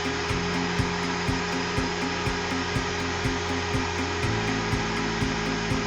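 Boiler feed-water pump running steadily while it fills a steam boiler before firing, a machine hum with a regular tick about four times a second. The hum shifts in pitch about four seconds in.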